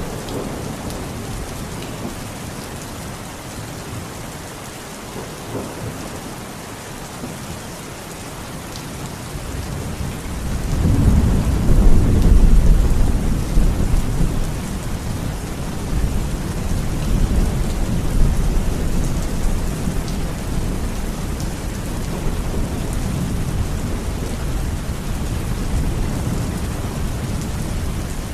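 Heavy rain falling steadily, with a long deep rumble of thunder that swells about ten seconds in, is loudest a couple of seconds later, and keeps rolling more softly afterwards.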